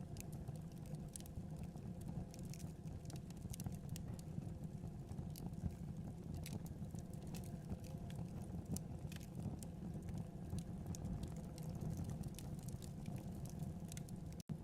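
Wood fire burning in a fireplace: a steady low rumble of flames with irregular crackles and pops. The sound cuts out for an instant near the end.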